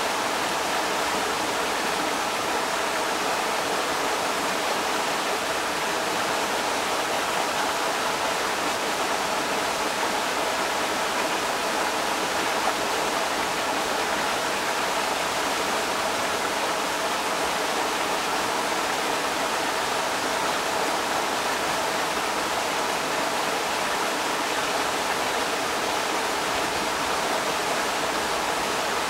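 Creek water rushing steadily over rocks, an even unbroken rush.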